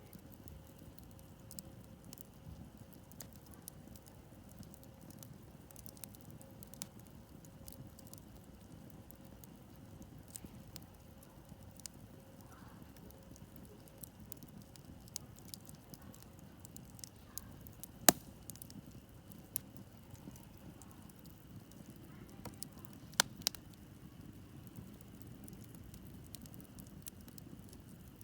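Wood campfire crackling, with scattered small snaps and a few sharper pops. The loudest comes about 18 seconds in, and a pair follows around 23 seconds.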